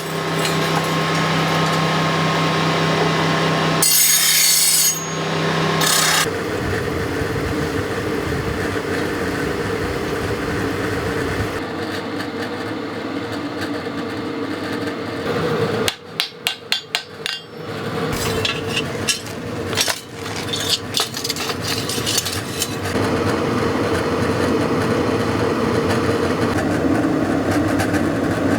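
Hand-forge workshop metalwork: a steady rasping, rubbing sound of steel being filed or ground over a running machine hum. Near the middle it is broken by a quick run of about five sharp metal knocks, with a few more scattered knocks after.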